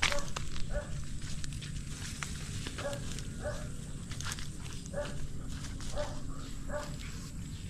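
A dog barking in short single barks, about six of them at uneven gaps, over a steady low background noise.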